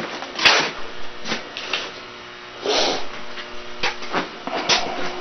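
Irregular clicks, knocks and short scrapes of metal parts and hand tools being handled during work on a motorcycle exhaust, with two longer scrapes, about half a second in and near three seconds.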